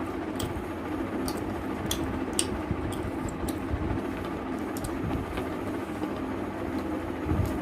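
Close-miked eating: wet chewing and sharp mouth clicks at irregular intervals, over a steady low hum.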